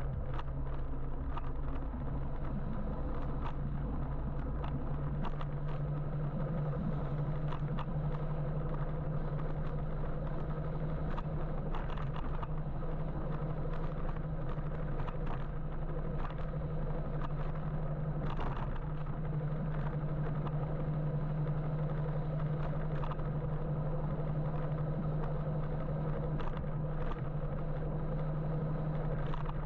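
Steady road and traffic noise heard from an electric motorbike moving through city traffic, with a low steady hum throughout and scattered light clicks and rattles.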